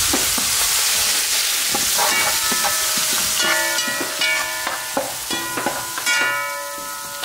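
Chopped tomato, garlic and leaves sizzling in hot oil in an aluminium pot while a metal skimmer stirs and scrapes, knocking against the pot several times. After each knock the pot rings with a few clear tones, and the sizzle is loudest in the first few seconds.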